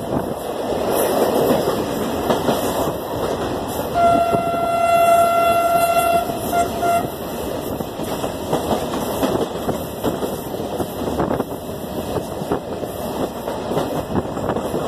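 Passenger train running at speed, heard from a carriage window: steady rumble with the clickety-clack of wheels over rail joints. About four seconds in the train horn sounds one long steady blast, then two short toots.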